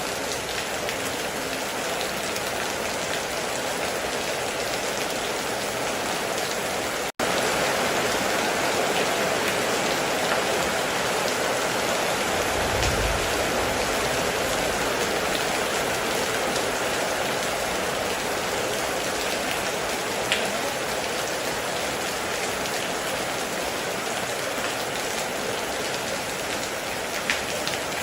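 Heavy rain falling steadily on a roof, with a couple of sharper drop strikes standing out. It cuts out for an instant about seven seconds in, then carries on a little louder.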